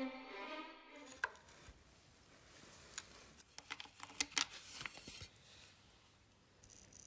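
Bowed-string background music stops about a second in, followed by a few sharp clicks and taps of handled objects, most of them bunched together near the middle.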